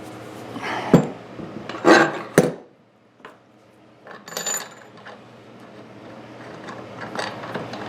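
Metal tools and parts being handled on a workbench: a few sharp knocks in the first few seconds, then a ringing metallic clink.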